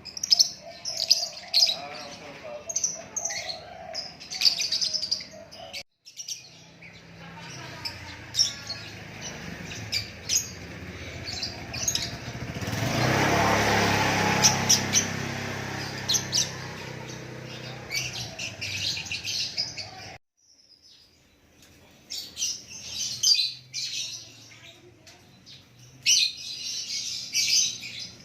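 Songbird giving rapid sharp chirps and short song phrases. In the middle a broad rushing noise swells and fades over several seconds while the chirps thin out, and the sound drops out abruptly twice, once before and once after it.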